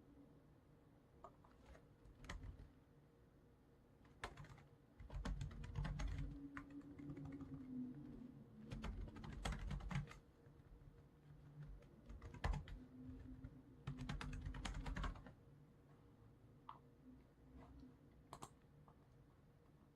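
Typing on a computer keyboard in two bursts of rapid keystrokes, with scattered single clicks in the pauses between them.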